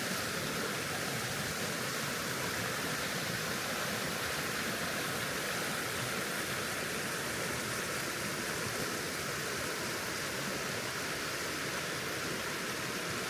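Steady rushing of water, an even unbroken hiss.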